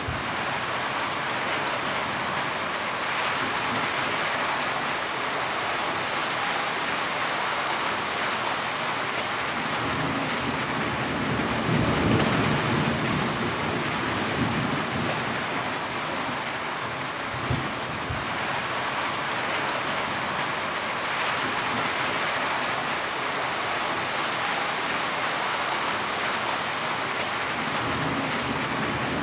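Heavy rain falling steadily, an even hiss of drops on surfaces, with a low rumble that swells about ten to fourteen seconds in.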